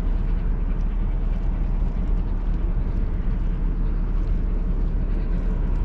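Steady low rumble of a large ferry, an even deep noise with no change in level.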